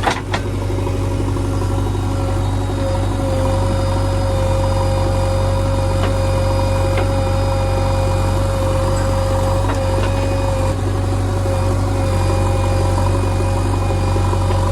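JCB 3DX backhoe loader's diesel engine running steadily with a steady whine over its hum, and a sharp knock right at the start.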